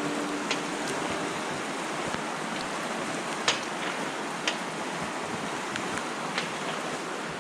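Franklin River rushing below, a steady, even rush of water, with a few sharp clicks and knocks scattered over it.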